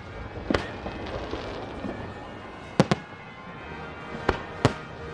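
Aerial fireworks exploding: several sharp bangs, a pair close together near the middle and two more near the end, over a continuous background din.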